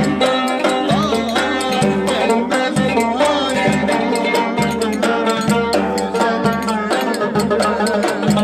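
Instrumental Turkish Black Sea folk dance tune (oyun havası): melody instruments playing a wavering, ornamented line over a steady drum beat.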